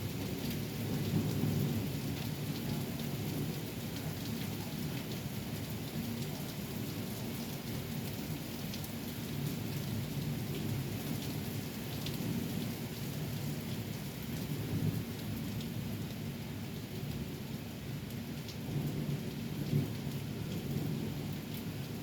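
Thunderstorm: steady heavy rain with low thunder rumbles that swell louder a few times, and scattered sharp ticks of drops striking.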